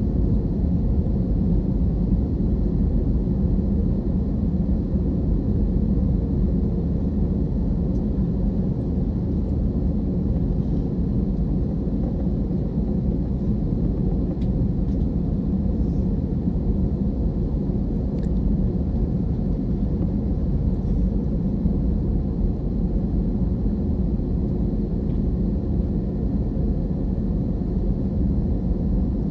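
Steady low rumble of an Airbus airliner's cabin on the ground before departure, with a few faint clicks.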